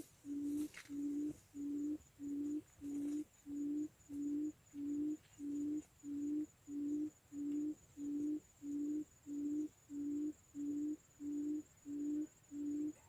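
Quail call: a low hooting note repeated very evenly, about one and a half times a second, of the kind used to lure quail to a trap.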